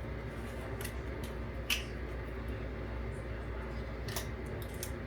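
A few light clicks and taps of kitchen handling, the sharpest about two seconds in, over a steady low hum and hiss.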